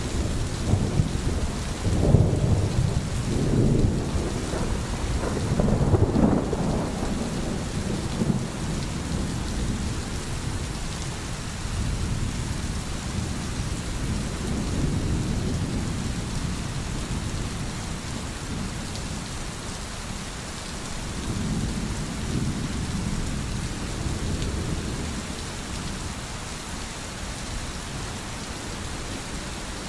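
Steady, heavy rain falling, with low rumbling swells that are strongest in the first several seconds and then ease off.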